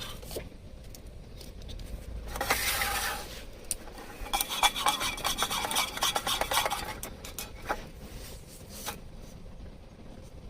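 Scraping and rubbing: one long scrape, then a run of quick clicks and rattles.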